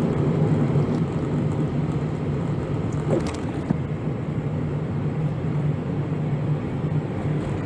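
Steady engine drone and tyre-and-road noise inside the cabin of a van cruising on a highway.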